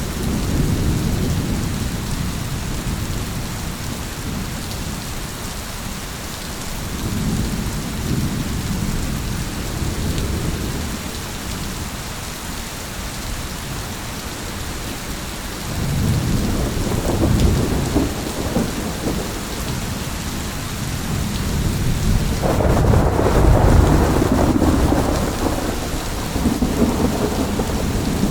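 Steady heavy rain with rolling thunder: low rumbles swell and fade several times, the loudest and fullest roll about three-quarters of the way through.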